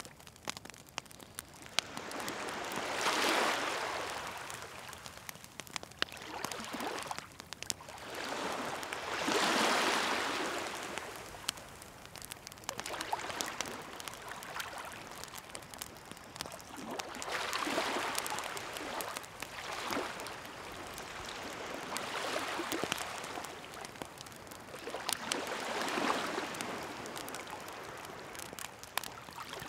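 Waves washing in on the shore, one swell about every six to eight seconds, with a wood campfire crackling and popping throughout.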